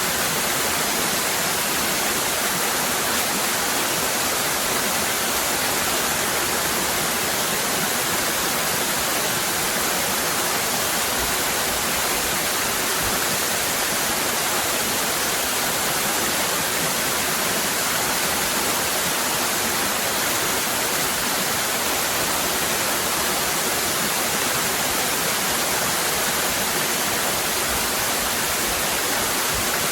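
Waterfall cascading, a steady, even rush of water.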